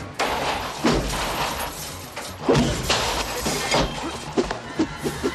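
Film fight sound effects: a rapid series of hits, thuds and smashing, breaking crashes over an action score.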